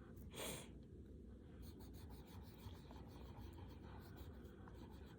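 Faint scratching of coloured pencils on paper as a drawing is coloured in, in short irregular strokes, with a brief louder rush of noise about half a second in.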